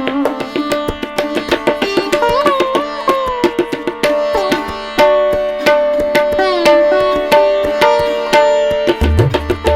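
Background instrumental music in Indian classical style: a plucked string melody with bending notes over a steady drone, driven by rapid tabla strokes. Deep drum strokes come in near the end.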